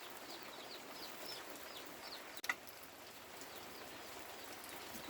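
Chicks peeping: a run of short, high, falling chirps, mostly in the first couple of seconds, over a steady hiss, with one sharp click about halfway through.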